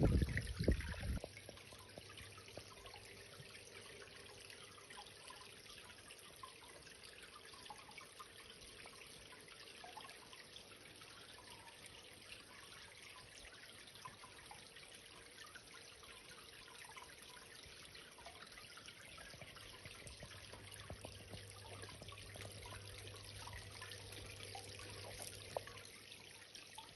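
Water of a small cascade waterfall trickling and splashing into a pond, a faint steady running-water sound with scattered drips. A few loud low thumps come in the first second.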